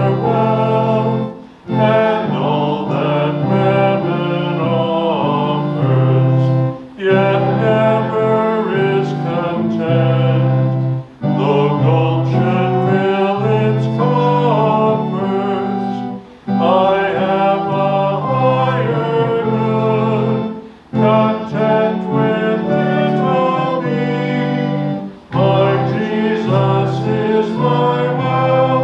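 A church congregation singing a hymn with organ accompaniment over held bass notes. The singing pauses briefly between lines, roughly every four to five seconds.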